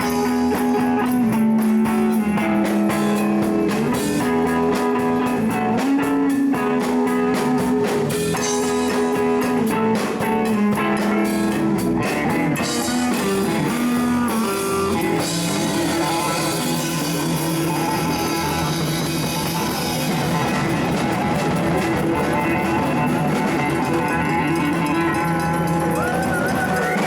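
Live rock-blues band jamming: electric guitar playing sustained, bending notes over a drum kit.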